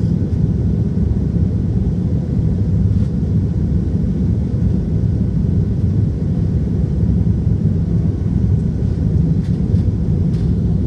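Steady low rumble of an Airbus A320 airliner in flight shortly after takeoff, its engine and airflow noise heard from inside the passenger cabin.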